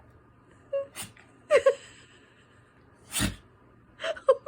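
A dog sneezing: one sharp sneeze about three seconds in, with a few shorter nasal sounds before it and near the end. It is part of a bout of repeated sneezing with nose-licking.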